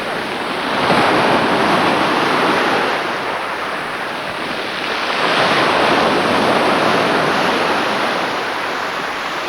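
Sea waves washing and breaking on the shore, the surf swelling twice in a steady rush of noise.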